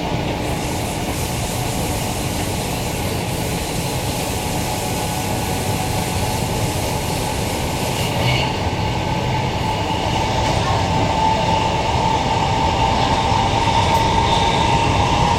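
Queensland Rail electric multiple unit running along the line: a steady rumble and hiss of the train in motion, with a whine that grows louder and rises slightly in pitch over the second half.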